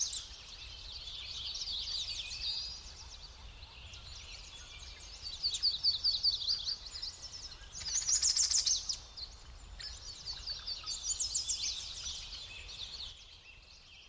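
Songbirds singing, rapid chirping trills in several bouts, over a faint low hum.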